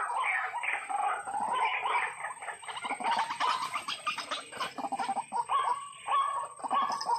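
White-breasted waterhen calling: repeated harsh croaking notes that break into a fast stuttering chatter about three seconds in.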